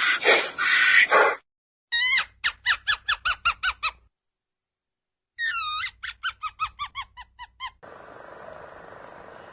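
An animal's high squeaky calls: two runs of quick falling chirps, about four or five a second, each run fading out, after a few loud harsh calls at the start. A steady hiss takes over near the end.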